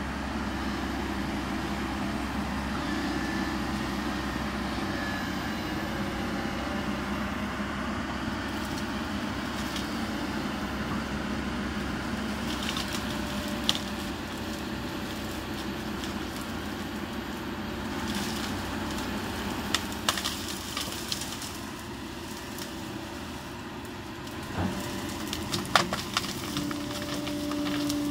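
Kobelco SK200 hydraulic excavator running steadily while it breaks up trees, with wood cracking and snapping, sharp cracks coming mostly in the second half.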